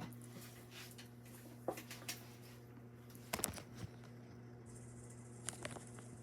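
42-inch Aloha Breeze ceiling fan running, its motor giving a faint steady hum. A few light clicks and taps break in at scattered moments, the loudest cluster about three and a half seconds in.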